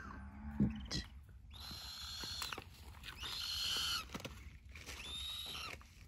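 A bird giving three raspy, hissing calls, each about a second long.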